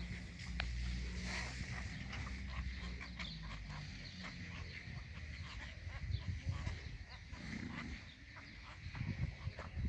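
A flock of cattle egrets calling, many short overlapping calls in a continuous chatter, over a low steady hum that fades after the first few seconds.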